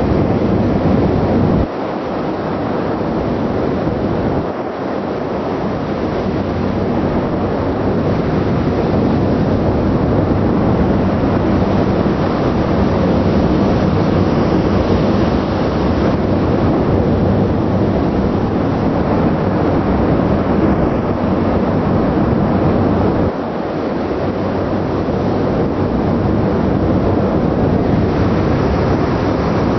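Wind rushing over the microphone on the deck of a moving ship, over a steady rumble of the ship's engine and the sea, with the low rumble dropping away briefly a few times.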